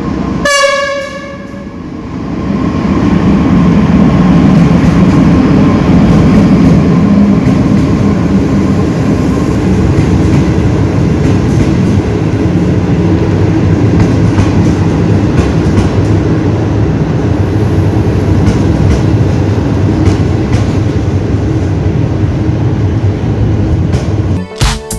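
An Ethio-Djibouti Railway passenger train arriving at a station. A short horn blast sounds about half a second in, then the loud, steady rumble of the train rolling past along the platform.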